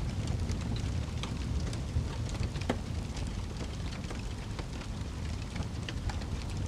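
Wood fire burning in a fireplace: a steady low rumble of flames with many small irregular crackles and pops, one sharper pop a few seconds in.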